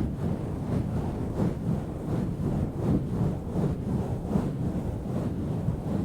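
A cover rubbed and swirled right on a microphone, giving a continuous deep, rough rustling rumble that flutters in loudness.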